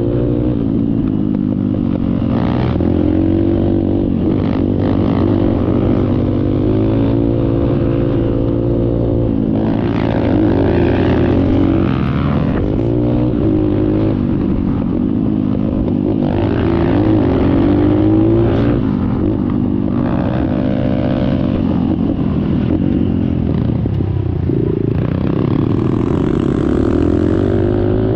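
Small dirt bike engine running and revving up and down as it is ridden, with a few short knocks along the way.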